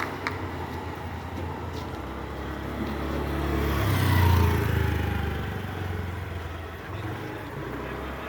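A motor vehicle passing by: its engine sound swells to a peak about four seconds in, then falls away with a dropping pitch.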